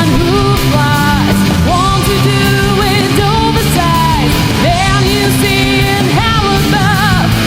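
Alternative rock band recording playing loud and dense, with drums and a lead melody line that slides and bends in pitch.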